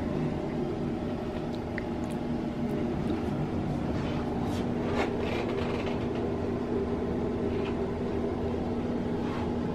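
Steady ventilation hum with one constant low tone, and a few faint clicks.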